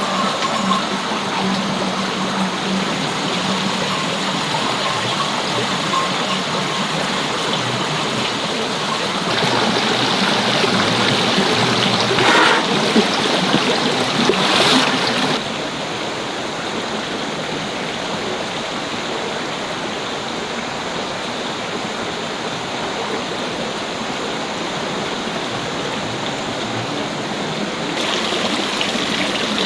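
Running water in a steady rush. It grows louder about a third of the way in, with a brief sharp sound, then drops back to a steadier, softer rush about halfway through.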